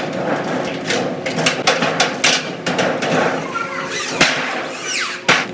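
Workshop clatter: irregular knocks and clanks in quick succession, with a short falling squeal near the end.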